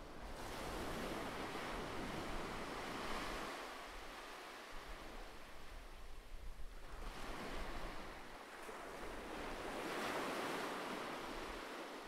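Ocean surf washing onto a shore: two waves swell up and recede, a rushing hiss rising and easing between them, over a low steady rumble.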